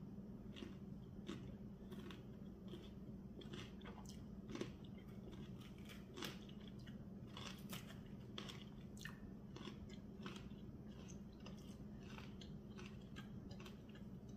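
Crunching and chewing of crisp fresh cucumber slices, a quick irregular run of faint crisp crunches.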